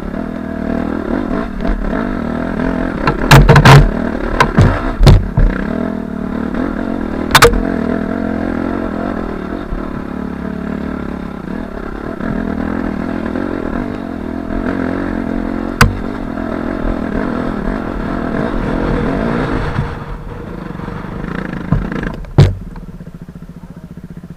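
2005 Suzuki RM-Z250 four-stroke dirt bike engine running steadily while riding, with several sharp knocks and clatter: a cluster a few seconds in, then single ones later. The engine sound drops off near the end.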